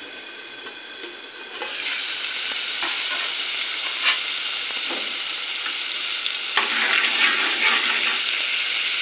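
Ground tomato masala with ginger-garlic paste frying in oil in an aluminium pot. The sizzle grows much louder about a second and a half in as the pot is uncovered. A metal spoon then stirs and scrapes the pot, with a few clicks against its sides.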